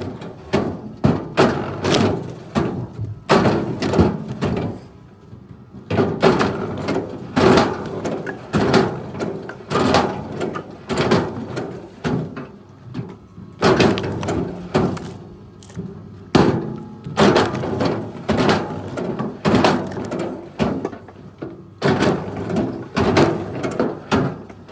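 A rapid series of knocks and thuds on wood, about two to three a second, coming in bursts with short pauses between them.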